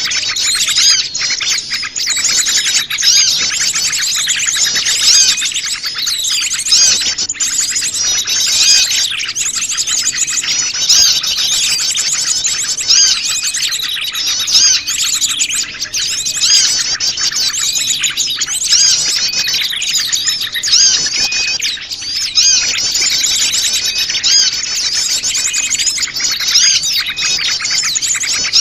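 Dense chorus of many small wild birds chirping and twittering over one another, a mixed small-bird lure call.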